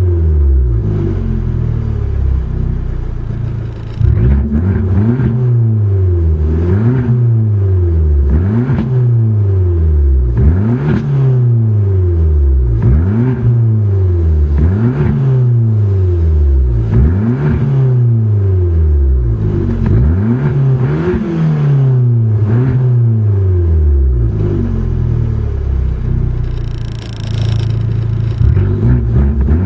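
Fiat Abarth engine revved over and over, each blip climbing quickly and then sinking slowly back down, about one every two seconds.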